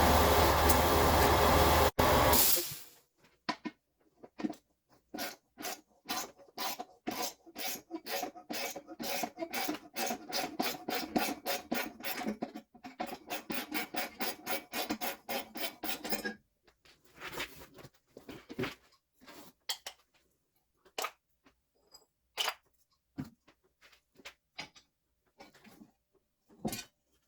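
Hand-tool rasping on the exhaust pipe, a fast run of back-and-forth strokes about three a second. A loud steady noise cuts off about three seconds in, and the strokes stop around sixteen seconds, leaving scattered clicks and knocks.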